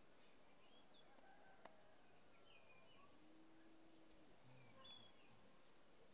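Near silence with faint, scattered bird chirps and one sharp click about a second and a half in.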